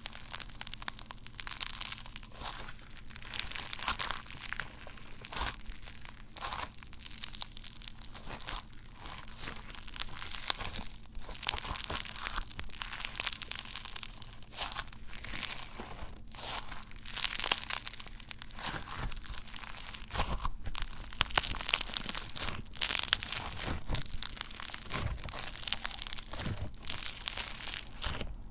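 Slime being squeezed and worked by hand, a dense run of crackling, crunching pops that swell and fade every second or two.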